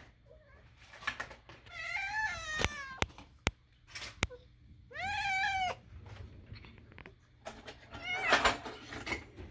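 A domestic cat making strange meowing calls, three in all: one at about two seconds, a clear arched one about five seconds in, and a rougher one near the end. A few short sharp clicks fall between the first two.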